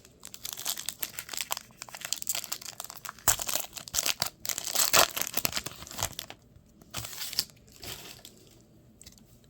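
Crinkling and tearing of a trading card pack's wrapper as it is torn open, in dense, irregular crackles, heaviest in the middle and dying away near the end.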